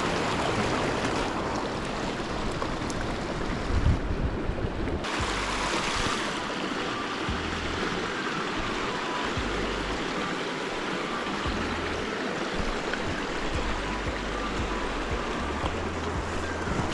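Mountain stream rushing steadily, with gusts of wind buffeting the microphone in low, uneven rumbles and a stronger gust about four seconds in.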